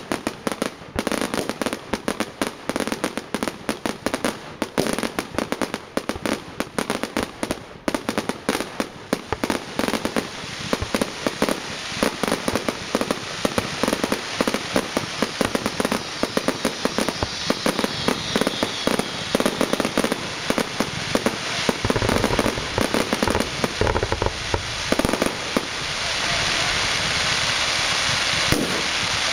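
Fireworks display: a dense, rapid run of crackling pops and bangs that never lets up, growing into a thicker, continuous crackle over the last few seconds.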